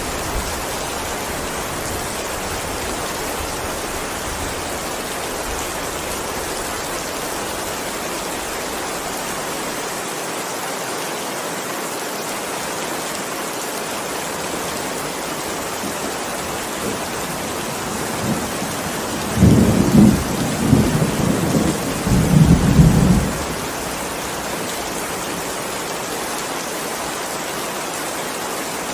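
Steady heavy rain, an even hiss. About two-thirds of the way in, a roll of thunder rumbles low for three or four seconds in several pulses.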